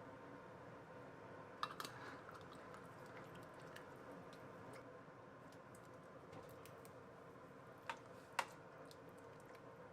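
Very quiet room with a faint steady hum, broken by a few light clicks and taps: a small cluster about two seconds in and two more near the end.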